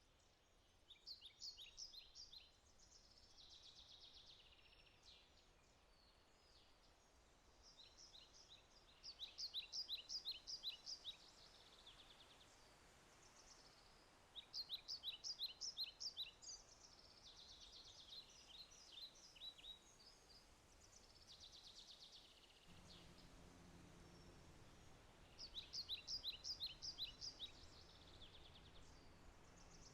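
A songbird singing fast trilled phrases, each about two to three seconds long, repeating every five to eight seconds over a faint steady hiss. A low rumble comes in about three-quarters of the way through.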